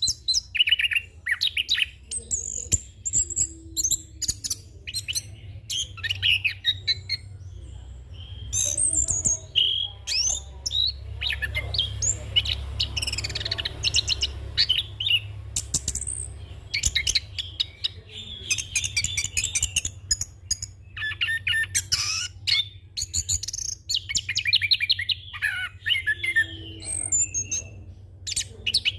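Chestnut-capped thrush (anis kembang) singing a long, rapid, varied song: high chirps, trills and mimicked fill-in phrases following one another quickly with only short pauses.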